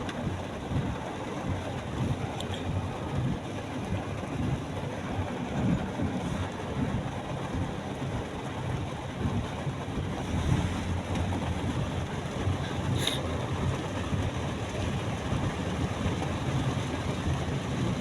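A car driving in heavy rain, heard from inside: a steady hiss of rain and wet tyres over a low road rumble, with a couple of brief faint squeaks.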